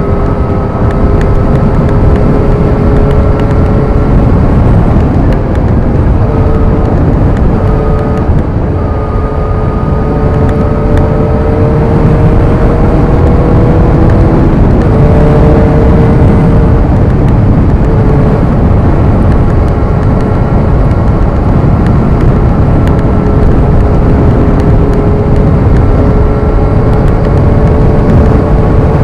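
Motorcycle engine running at road speed under heavy wind noise on the microphone. The engine holds a fairly steady pitch, with a few small steps up and down.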